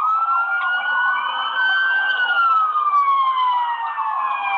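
Police car siren on wail: the tone sweeps up sharply at the start, peaks about two seconds in, then slowly falls.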